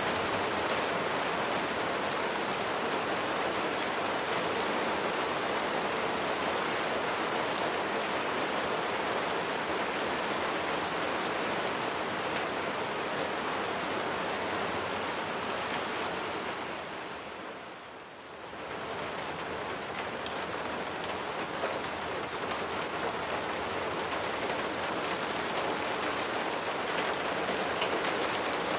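Steady heavy rain falling, a dense even hiss of drops. About two-thirds of the way in it fades down briefly and swells back up.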